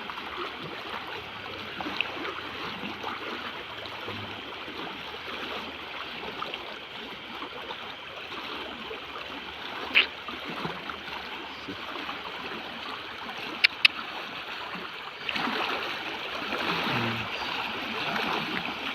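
Steady rush of a flowing stream, growing a little louder in the last few seconds. A single sharp click sounds about ten seconds in, and two quick clicks a few seconds later.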